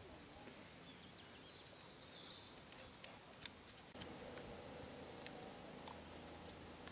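Quiet outdoor ambience with faint bird calls: a short trill about two seconds in, then a few brief high chirps.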